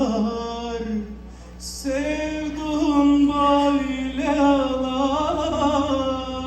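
A voice singing a long, ornamented wordless line of a Turkish folk song, with a short break about a second in before the held, wavering notes resume.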